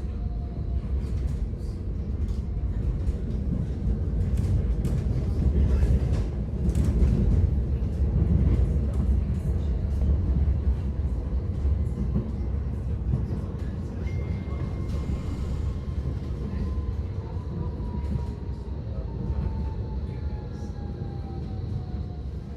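Electric tram heard from inside while it runs along the rails: a steady low rumble with scattered clicks, and a thin whine that slowly falls in pitch over the second half.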